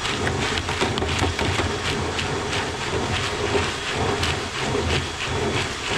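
Dryer vent cleaning equipment running in a heavily lint-clogged metal vent line: a loud, steady rushing noise full of rapid clicks and rattles, cutting off near the end.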